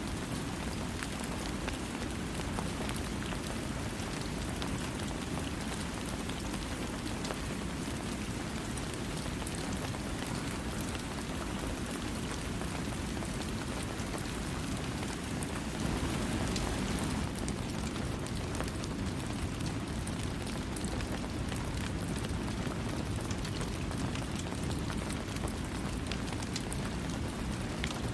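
Steady rainfall with individual drops pattering on a surface, without thunder; it grows slightly heavier for about a second, some sixteen seconds in.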